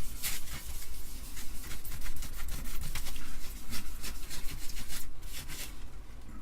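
Quick, irregular scrubbing and scuffing strokes on a rust spot on an Amiga 500's board, where spilled coffee has caused corrosion. The strokes stop near the end.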